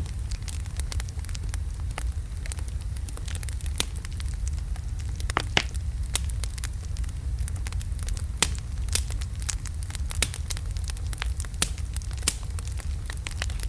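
Wood logs burning in a fireplace: a steady low rumble of flame with irregular sharp crackles and pops.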